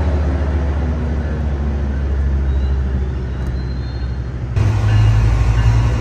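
Diesel train engine running with a steady low rumble; a little past halfway it cuts abruptly to a louder rumble.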